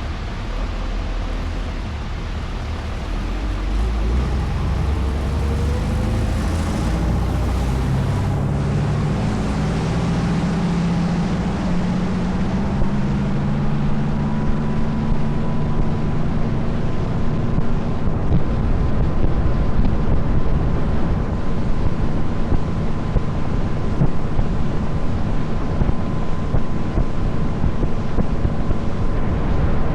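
Tour boat's engine running, its pitch rising over several seconds as the boat speeds up and then holding steady, with wind buffeting the microphone and water rushing past the hull.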